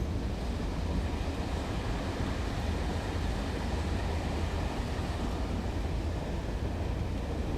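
Railway station ambience: a steady low rumble from diesel trains, with no distinct events standing out.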